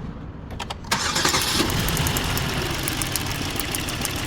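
Hyundai Azera 3.0 V6 engine cranked with a few clicks and catching just under a second in, then idling with rapid uneven ticking. It is running with a misfire that the mechanic puts down to a shorted ignition coil.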